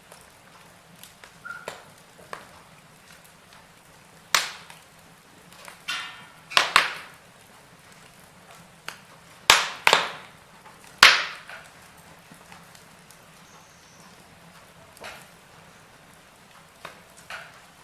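Logs burning in a fireplace, crackling with irregular sharp pops over a low, steady hiss. Several loud cracks come close together in the middle.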